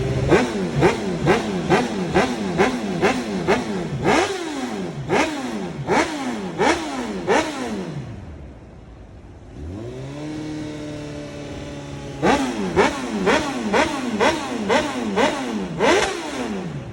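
Motorcycle engine revved in a long series of quick throttle blips. Each blip jumps up in pitch and glides back down toward idle. About halfway through it settles to a quieter running note for a couple of seconds, then a second rapid run of blips follows.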